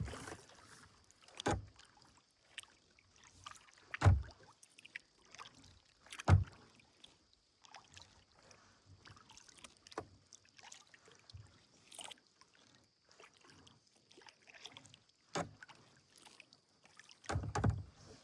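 Kayak paddling: soft water sounds from paddle strokes, broken by a handful of sharp, loud thumps, the loudest about four and six seconds in.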